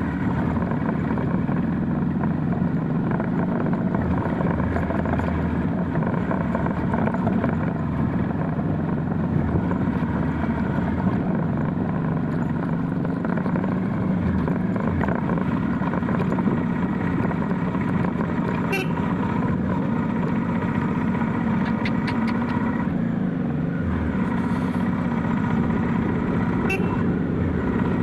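Motorcycle engine running at a steady cruise with road and wind noise. There are a couple of brief sharp clicks about two-thirds of the way in and near the end.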